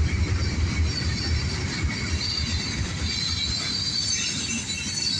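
Cars of a steel-slab freight train rolling past with a steady low rumble. High wheel squeal comes and goes over it, strongest in the second half.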